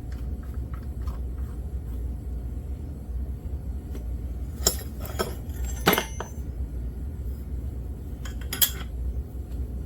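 Metal hand tools and engine parts clinking a few times, with sharp clinks about halfway through and near the end, over a steady low hum.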